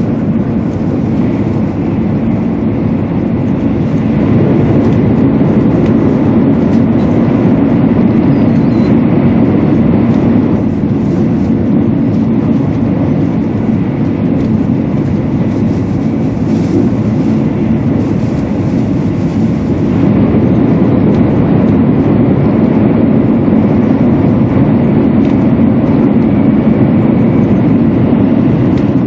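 200 series Shinkansen train running at speed, heard inside the passenger cabin: a steady low rumble that grows a little louder about two-thirds of the way through.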